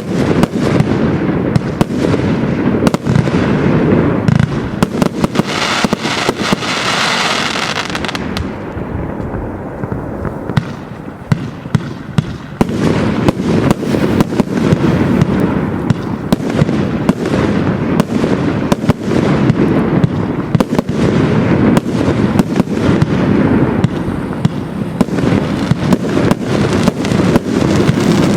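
200-shot consumer firework cake (Absolute Fireworks 'Game Changer') firing continuously: a rapid, dense string of launch thumps and aerial bursts. A hissing stretch comes about six seconds in, the firing thins briefly around ten seconds, then goes on densely again.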